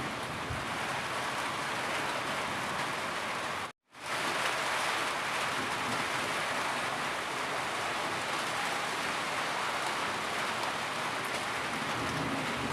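Steady rain falling, a dense even hiss with no thunder. It cuts out completely for a split second about four seconds in, then resumes as before.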